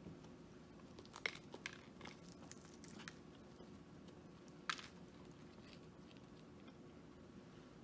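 Quiet eating sounds: a few short clicks and crinkles from handling food and its packaging, with soft chewing, over a low steady room hum.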